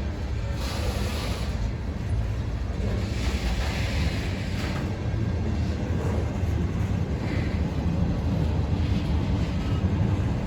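Freight train rolling past: a steady low rumble with a rushing noise over it.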